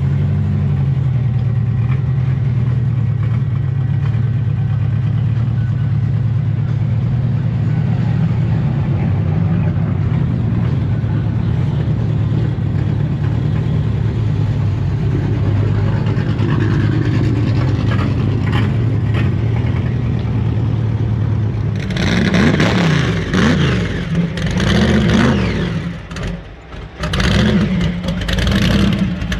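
A truck engine running at a steady low idle, then revved repeatedly about three-quarters of the way in, its pitch sweeping up and down.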